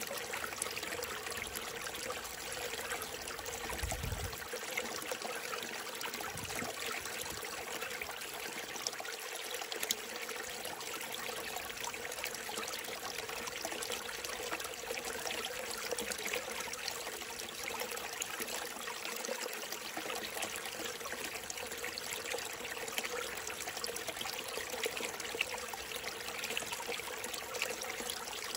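Small mountain stream trickling and splashing steadily over rocks.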